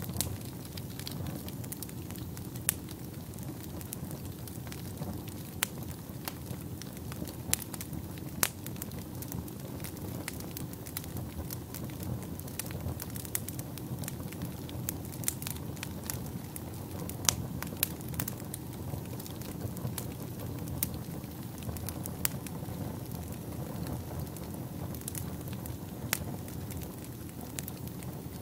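Fire burning in a fireplace: a steady low rush of flames with sharp pops and snaps scattered irregularly throughout.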